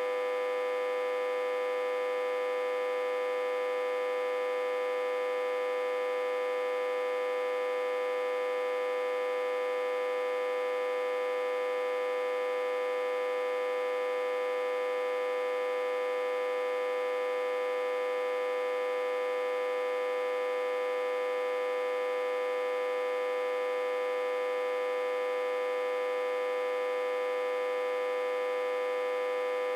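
Autotransformer humming, fed in reverse from a step-down transformer at about 60–80 V: one steady, unchanging electrical hum with a strong mid-pitched tone and many overtones above it.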